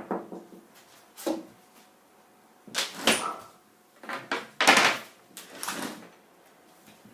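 A few separate bumps and rustles of handling, with a door being opened wider.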